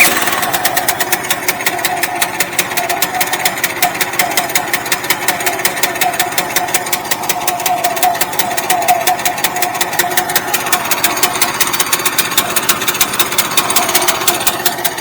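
Sawmill's small gasoline engine running steadily just after starting, being warmed up, with a fast, even beat of firing pulses.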